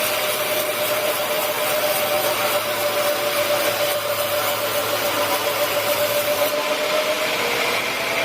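Sawmill saw running through a teak log: a steady whine over the hiss of the cut. The high hiss drops away about six and a half seconds in and the whine dips in pitch just after.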